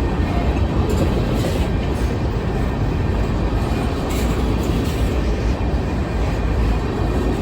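Covered-hopper grain cars of a long freight train rolling past: a steady rumble of steel wheels on the rails, with a few clacks as wheelsets cross rail joints.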